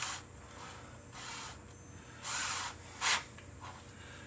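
A few short rubbing, scraping sounds of things being handled on a workbench, the sharpest and loudest about three seconds in.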